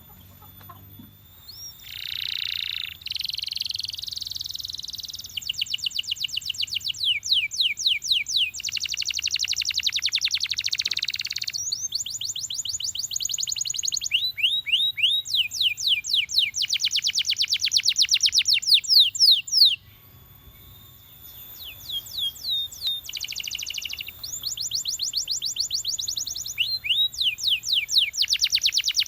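Canary singing: a run of phrases, each a fast trill of repeated high notes or quick falling sweeps, changing every second or two, with a short pause about two-thirds of the way through before the song goes on.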